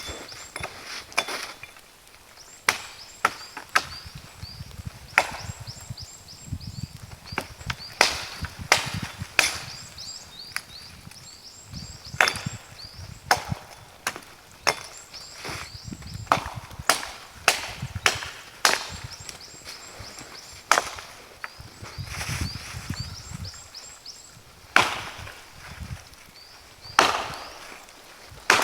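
Wood being chopped: sharp blows fall at irregular intervals of about a second, with a few short pauses.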